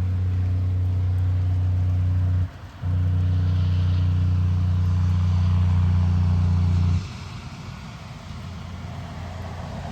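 A vehicle engine's steady low hum, unchanging in pitch, that drops out briefly after about two and a half seconds and cuts off suddenly about seven seconds in, leaving a quieter rumble.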